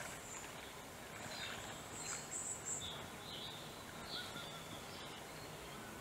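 Steady faint background hiss with a few high-pitched bird chirps, clustered from about two to four and a half seconds in.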